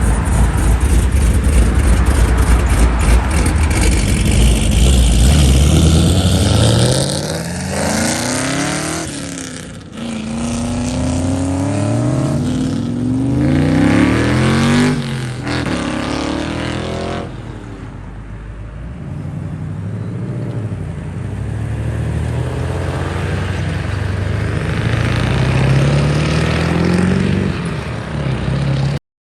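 Modified car engine under hard acceleration. A loud low exhaust rumble gives way to several rising revs with breaks between them as it shifts up through the gears, followed later by another slower rising engine note.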